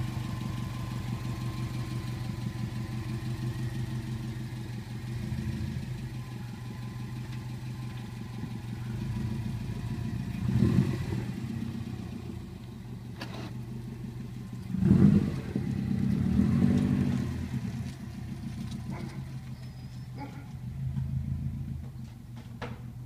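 Straight-piped 2004 Subaru WRX's turbocharged flat-four engine idling with a steady low burble. It is blipped into short revs about ten seconds in and again around fifteen seconds, with a longer rev just after and a smaller one near the end.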